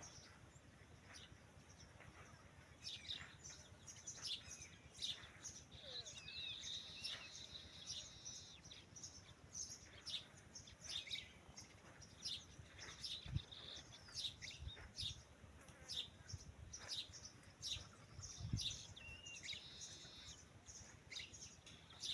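Birds chirping faintly, with many short calls scattered throughout. There are two low thuds, one past the middle and one later on.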